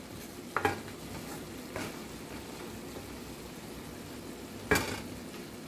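Eggplant, potato and dried shrimp frying in a metal pan with a steady soft hiss, as a spatula stirs them. There are a few light scrapes, and one sharp clack of the spatula against the pan near the end.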